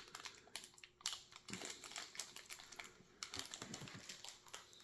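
Hands handling small plastic and paper pieces from a puzzle box: faint, irregular clicks and short rustles.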